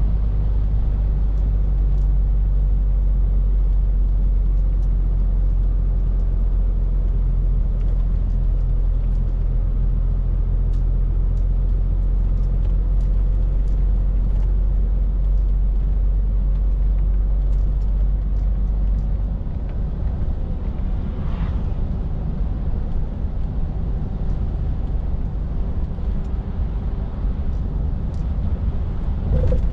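Scania R450 lorry's 13-litre six-cylinder diesel running steadily on the road, with tyre and road rumble. About two-thirds of the way through, the steady low engine note drops away and a rougher rumble carries on.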